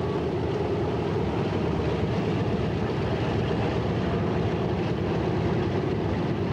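Boeing B-17G Flying Fortress's four Wright R-1820 Cyclone radial piston engines running with a steady, even drone.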